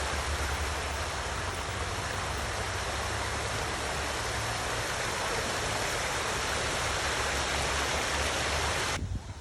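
Water pouring steadily down a small garden waterfall into a pond, an even rushing sound that cuts off abruptly near the end.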